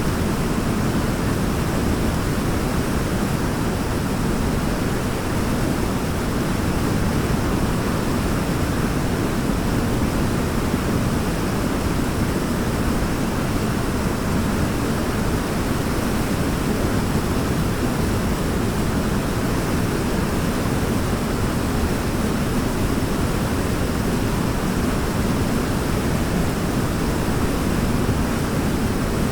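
Waterfall: a steady, unbroken rush of falling water, strongest in the low range, with no change in level.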